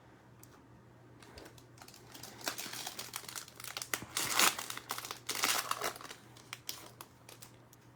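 Plastic wrapper of a football trading-card pack crinkling and tearing as it is opened by hand, in irregular crackles for several seconds, loudest in the middle.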